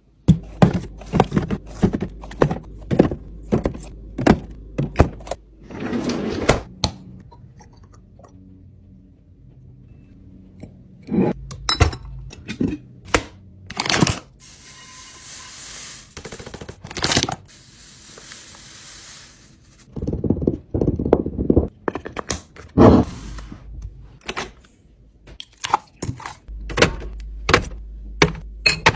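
Food containers and packages being handled and set down while a fridge is arranged: repeated knocks, clunks and scrapes of plastic and glass, some in quick runs. A steady hiss lasts about five seconds near the middle.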